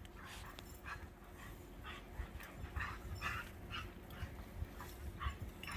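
Dogs at play, giving a string of short barks and yips, about nine in a few seconds, unevenly spaced.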